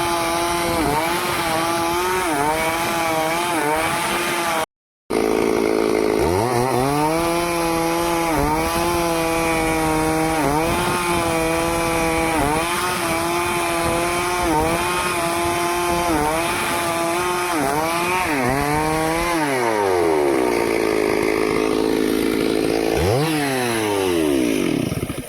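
Stihl two-stroke chainsaw running at full throttle, its pitch dipping again and again as it bites into the wood. The sound drops out for a moment about five seconds in. Near the end the saw falls back to idle, revs up once more and cuts off.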